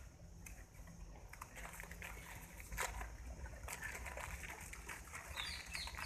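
Quiet outdoor ambience with a low rumble on the microphone and a sharp click a little under halfway; near the end a bird starts a quick series of short, high, falling chirps, about three a second.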